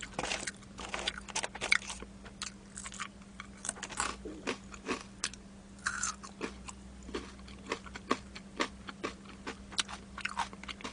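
Close-miked chewing and crunching of sauced boneless fried chicken: irregular crisp bites and wet mouth clicks. A faint steady hum runs underneath.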